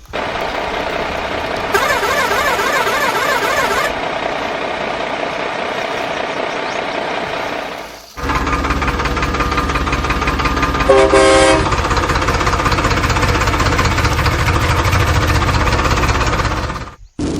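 Heavy vehicle engine sounds running steadily in two stretches, cut off sharply about eight seconds in and again near the end, with a short horn blast about eleven seconds in.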